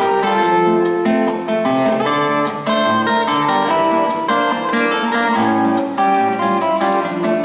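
Acoustic guitar playing the instrumental introduction to a song: a quick run of plucked and strummed notes over a bass line.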